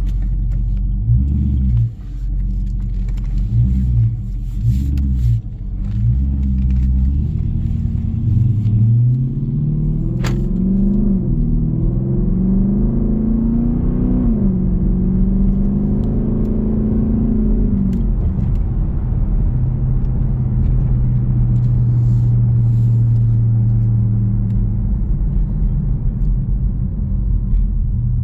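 Jeep Grand Cherokee's 5.7 Hemi V8 exhaust rumbling on the road. A few short surges of throttle come in the first seconds, then the pitch climbs and drops back twice as it accelerates up through the gears, settling to a steady drone while cruising.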